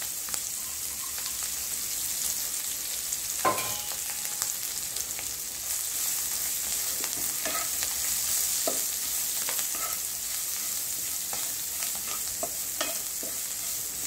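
Chopped fenugreek leaves sizzling in hot oil in a non-stick pan, stirred with a wooden spatula that knocks and scrapes the pan now and then; one louder knock about three and a half seconds in.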